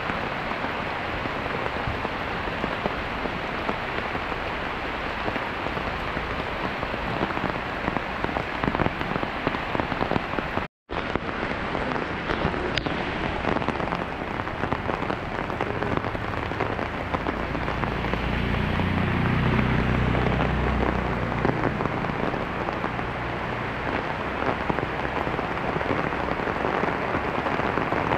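Rain pouring down onto leaves and onto muddy floodwater covering a dirt road, a steady dense hiss. The sound cuts out for an instant about eleven seconds in, and a low rumble swells under the rain about two-thirds of the way in.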